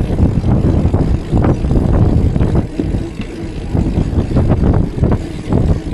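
Wind buffeting the microphone, with road rumble, during a bicycle ride: an uneven low rumble that dips a little about halfway through.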